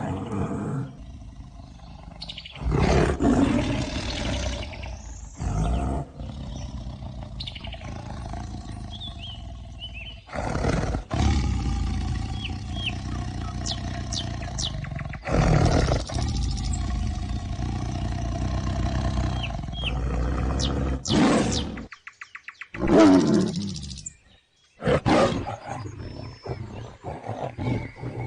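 Tiger roaring and growling again and again: several loud, deep roars a few seconds apart over a continuous lower rumble.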